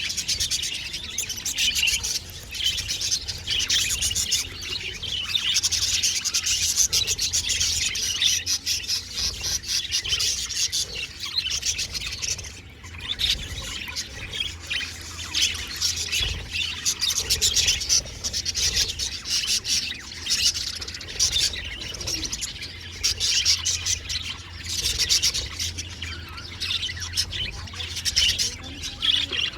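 Budgies chirping and warbling, a continuous busy chatter of rapid high chirps.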